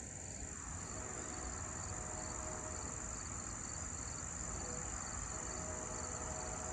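Insects chirring in a steady, high, continuous buzz. A faint distant train horn sounds twice, held briefly each time.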